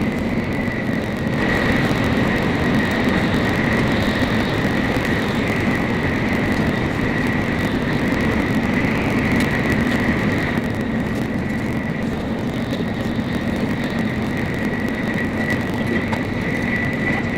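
Steady running noise of a Nozomi shinkansen train at speed, heard from inside the passenger cabin: an even rumble with a steady high whine over it.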